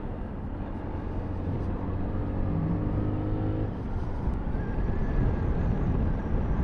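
Sinnis Terrain 125cc motorcycle engine running at a steady speed, with wind and road noise, heard from on the bike. A little under four seconds in, the steady engine note gives way to a rougher, noisier rumble.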